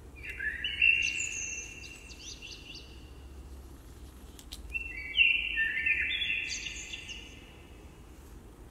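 Bird chirping in two bursts, one just after the start and another about five seconds in. Each is a cluster of high calls that trail out into long echoes.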